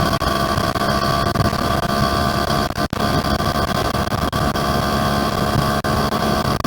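Yamaha F1ZR two-stroke underbone motorcycle engine running steadily while riding, mixed with wind and road noise, with a few very brief dropouts.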